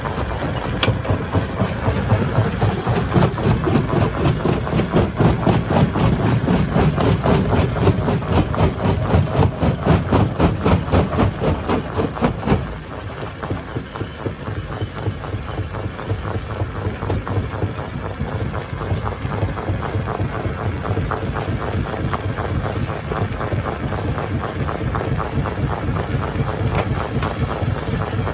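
Stone crusher machine running with a fast, regular pulsing beat. It is heavier and louder at first, and drops to a lighter, steadier running sound a little under halfway through.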